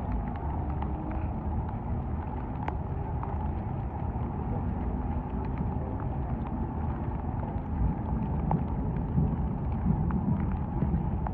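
A car engine running at low revs, rising somewhat in level from about eight seconds in, with scattered faint ticks over it.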